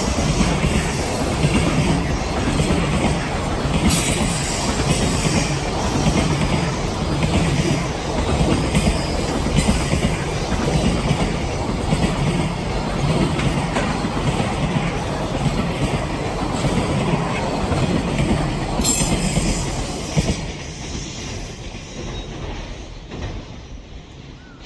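A freight train of container wagons rolling past on a downhill grade: steady wheel rumble and rail clatter, with brief high wheel squeals now and then. It fades away over the last few seconds.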